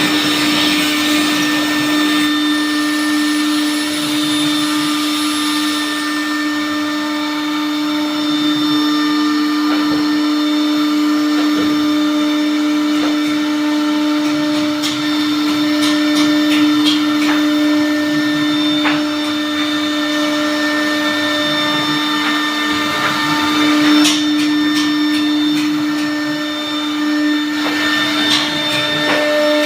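Electric motor of an aluminium-cutting saw running steadily with a constant whine, with scattered light clicks.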